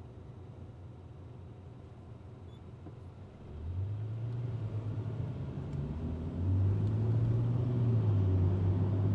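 Car engine and road noise heard from inside the cabin: a faint low hum while the car waits at a stop. About three and a half seconds in it pulls away and a low engine drone comes in, which grows louder about six and a half seconds in as the car gathers speed.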